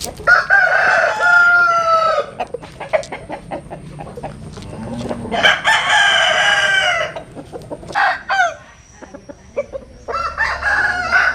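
Roosters crowing: three long crows a few seconds apart, the last cut off at the end, with clucking and short pecking-like clicks in between.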